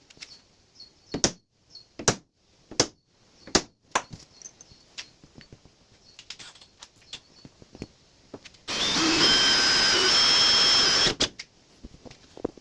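A run of sharp separate taps and clicks, then a power drill with a 13/64 in bit runs for about two and a half seconds with a steady whine, drilling a hole through a metal panel, and stops abruptly.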